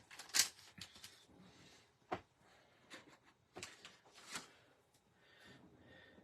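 Small craft pieces and cardstock being handled on a work table: a few sharp taps and clicks, the loudest about half a second in, with soft paper rustling between them.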